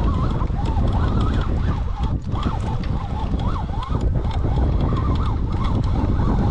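Heavy wind buffeting the microphone as a steady low rumble, with a wavering whistle-like tone that keeps rising and falling.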